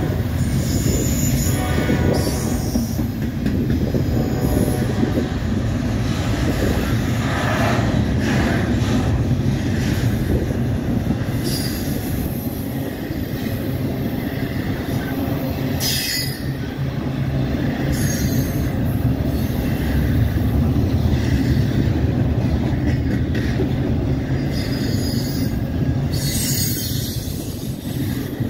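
Double-stack intermodal train's loaded well cars rolling past at close range: a steady rumble and clatter of steel wheels on the rails, with brief high-pitched wheel squeals breaking through several times.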